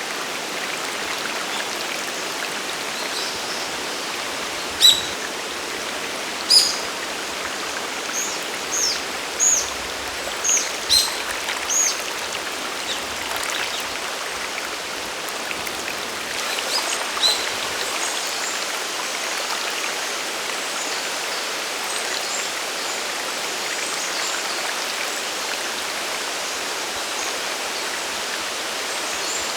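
Steady rush of a mountain waterfall and stream. A bird gives a series of short, high chirps a few seconds in, with a couple more just past the middle.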